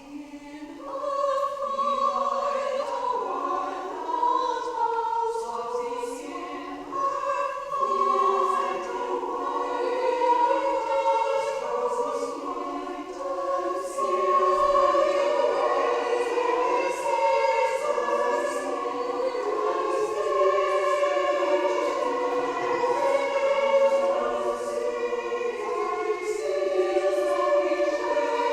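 Women's chorus singing in harmony, several voice parts holding sustained notes together.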